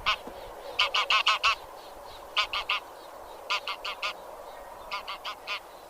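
Geese of the genus Anser honking in quick runs of three to five calls, a new run about every second, over a steady faint background hiss.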